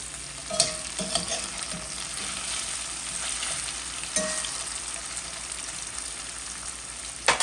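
Food frying in hot oil: a steady sizzle, broken by a few sharp knocks and clinks of a utensil against the pan as the pieces are turned. The loudest knock comes near the end.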